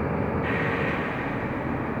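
Mercedes-Benz O345 Conecto LF city bus under way, heard from inside the cabin: steady engine and road noise. A brighter hiss joins about half a second in.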